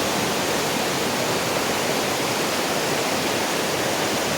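Mountain creek running high after heavy rain: a steady, unbroken rush of water.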